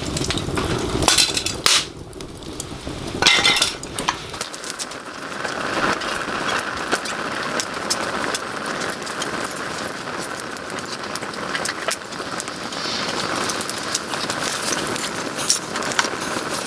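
Small wood fire crackling, with sharp pops and clicks over a steady hiss. There are two short, louder rushes of noise in the first few seconds.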